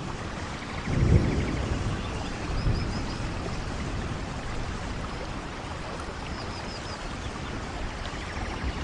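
Steady rain falling in a forest, with a low rumble swelling about a second in. A bird gives short runs of three high chirps twice.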